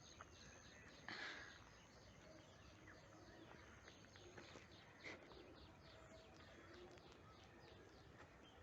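Faint outdoor ambience with distant birds chirping, short high chirps repeating several times a second, and a brief louder rustle about a second in.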